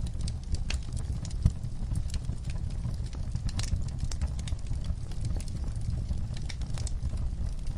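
Fire crackling in a fireplace: irregular sharp pops and snaps over a steady low rumble of the flames, with one louder pop about a second and a half in.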